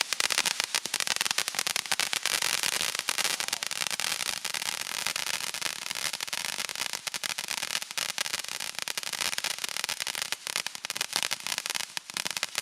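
A small consumer firework crackling: a dense, continuous stream of sharp pops.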